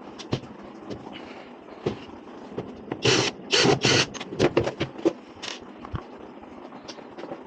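Scrapes and knocks of a washing machine's back cover being unscrewed and taken off, in short irregular bursts that are loudest about three to four seconds in.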